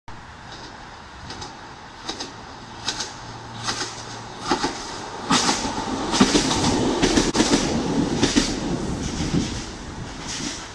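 East Midlands Trains Class 156 diesel multiple unit approaching and passing close beneath, its engine running and its wheels clicking over the rail joints in an even beat. The beat grows louder and quicker as the train nears, and it is loudest from about five to nine seconds in.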